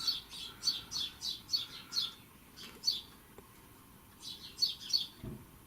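Small songbird chirping: quick falling chirps, about three a second, in two runs with a pause between them. A soft low thump near the end.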